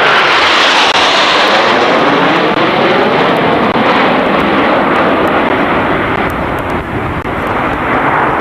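Jet aircraft making a loud, low pass, its whine dropping in pitch as it goes by at the start, then its engine noise carrying on loud with sweeping, shifting tones.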